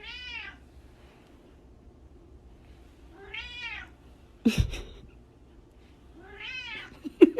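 A cat meowing three times, about three seconds apart, each meow rising then falling in pitch. A thump about halfway through and a few sharp knocks near the end are the loudest sounds.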